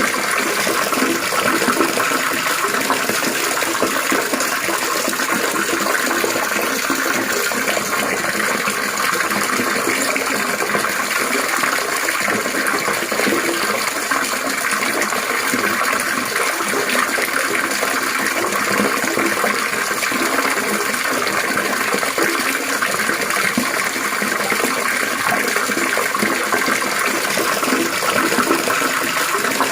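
Water trickling and splashing steadily, one even unbroken rush with no pauses.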